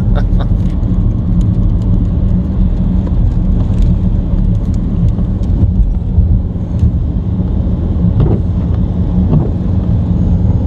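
Steady deep rumble of a vehicle's engine and road noise heard from inside the cab while driving through snow.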